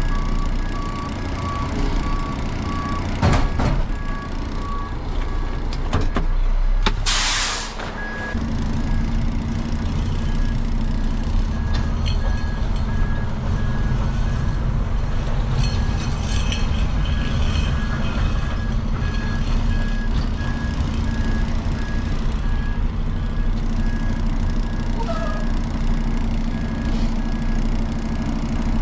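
Hook-lift truck's engine running with a backup alarm beeping about once a second, and a loud air hiss about seven seconds in, like an air brake releasing; from about eight seconds a steady low drone sets in under the beeps.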